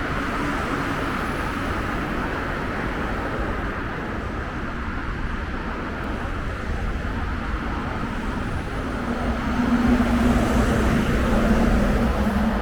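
Scania coach engine running with a steady low rumble, then a droning engine tone that grows louder about nine seconds in.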